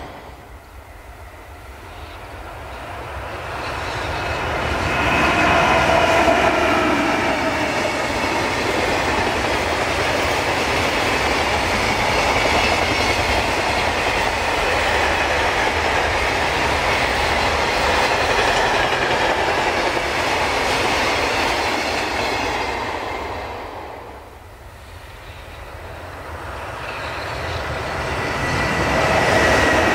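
A freight train of loaded container flatcars behind an EH500 electric locomotive rolls past close by, its wheels clattering steadily over the rail joints with a faint high whine. A few seconds before the end the noise drops away, and a second EH500-hauled container train approaches, growing louder.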